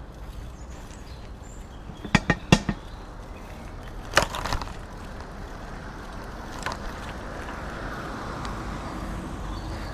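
Bicycle riding along with a steady rush of wind and road noise. About two seconds in comes a quick run of four sharp clacks, then another clattering rattle around four seconds and a single click near seven seconds.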